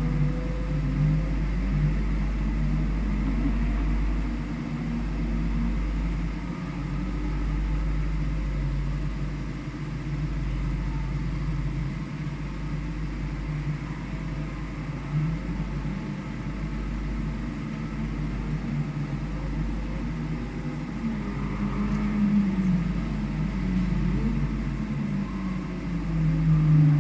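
Onboard sound of a vehicle driven around a race circuit: the engine note rises and falls with the revs over a steady low rumble.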